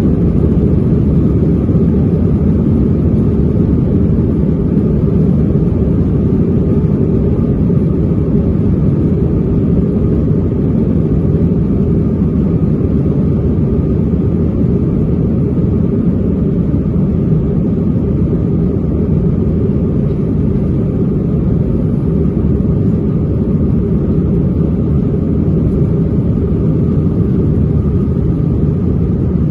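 Airbus A321 jet engines and airflow heard from inside the passenger cabin during takeoff: a loud, steady, low rumble.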